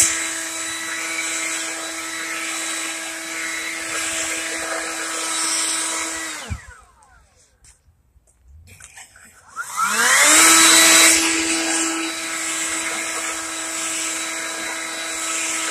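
Leaf blower running at a steady high whine, switched off about six seconds in so it winds down quickly, then started again a few seconds later, its whine rising in pitch as it spins up before running steady.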